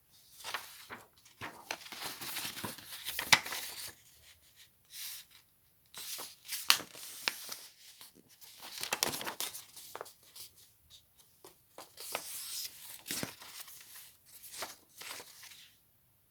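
Paper being crinkled and torn by hand for a paper squishy, in several bursts of rustling and crackling with short pauses between them.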